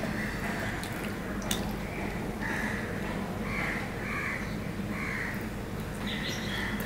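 A bird calling in a series of short, harsh calls, several in a row from about two seconds in, over a steady low hum.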